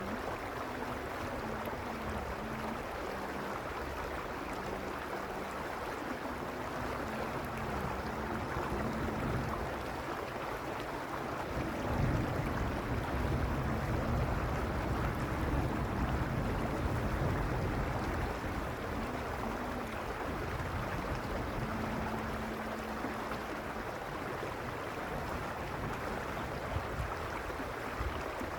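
Mountain stream flowing steadily over stones, a constant rushing of water. A low rumble swells in under it for a few seconds in the middle.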